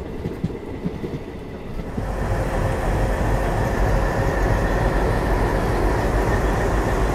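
Moving passenger train heard from the open coach door: wheels clicking over rail joints, then from about two seconds in a louder, steady diesel drone with a low rumble as the train passes idling ALCO diesel locomotives on the next track.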